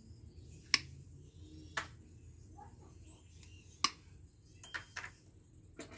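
About half a dozen scattered sharp clicks and knocks from small scrap parts being cut and handled by hand, over a faint steady hum.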